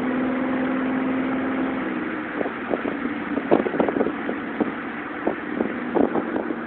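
Exhaust of a 1997 Ford F-150's 4.2L V6 through a Flowmaster 40 muffler with the catalytic converter removed, running at a steady pitch, then dropping lower about two seconds in. From there it turns rough, with many short, irregular pops and thumps.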